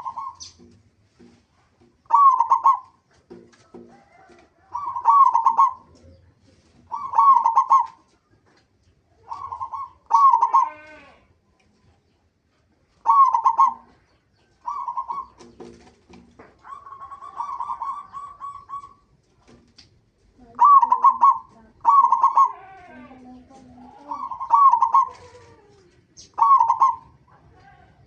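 Zebra dove (perkutut) cooing: short trilled phrases repeated about every two seconds, with one longer drawn-out phrase near the middle and softer low notes in between.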